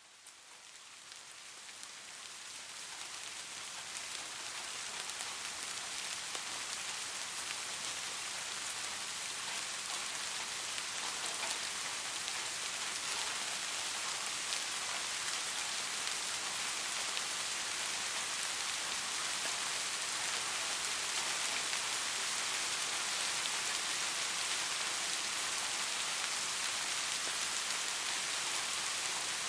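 Steady rain falling, a dense, even hiss of drops, fading in over the first several seconds and then holding level.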